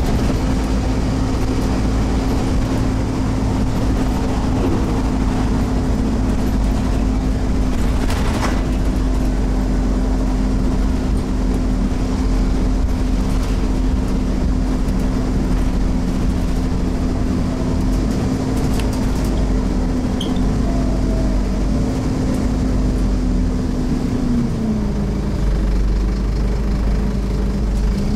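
Scania OmniCity single-deck bus's five-cylinder diesel heard from on board, pulling hard with a steady drone. Its pitch dips about 24 seconds in, then climbs again near the end, with a few short knocks and rattles along the way.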